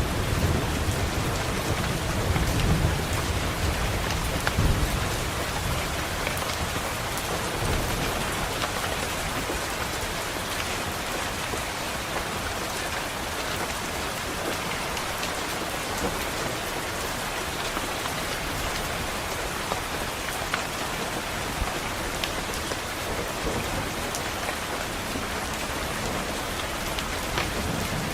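Steady rain pattering on a window, with a low rumble of thunder over the first several seconds that dies away.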